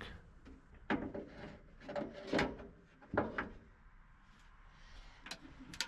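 A hose clamp being worked off a rubber vacuum hose by hand: a few short, scattered clicks and scrapes with quiet between them.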